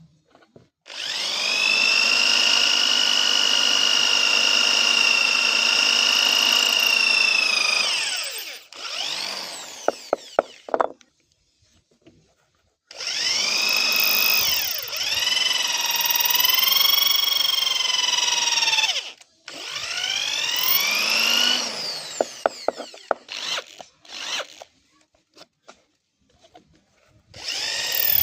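Handheld electric power tool running in several bursts of a few seconds each, a high motor whine whose pitch sags as the tool bears on the metal blade and recovers as it frees up. The whine falls away as the tool spins down between bursts, with a few sharp clicks in the gaps.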